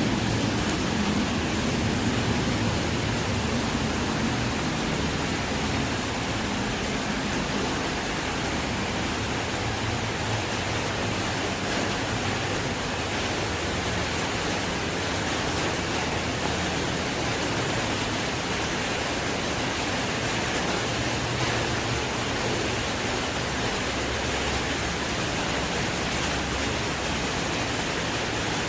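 Steady rain falling on an umbrella, a dense, even hiss, with a faint low rumble in the first few seconds.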